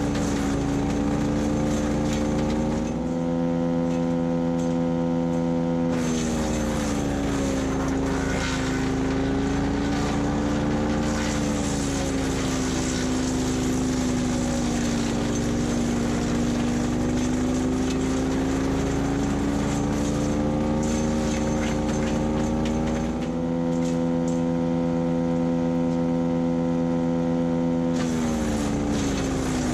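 Split-Fire 4090 wood chipper's Honda GXV390 engine running at full speed. About six seconds in, the engine note drops and wavers under load, with crackling and crunching as dry deadwood branches are fed through. It climbs back to full speed about twenty-three seconds in, then sags again near the end.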